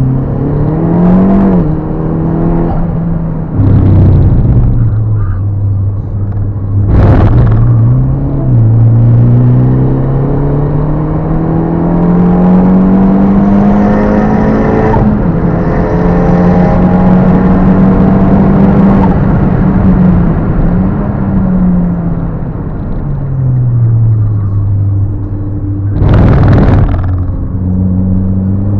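Turbocharged Fiat Panda 100HP engine with a big TD04 turbo, pulled hard through the gears: its pitch climbs steadily under full throttle, then drops sharply at each gear change. A few short, loud bursts of noise stand out, the longest near the end.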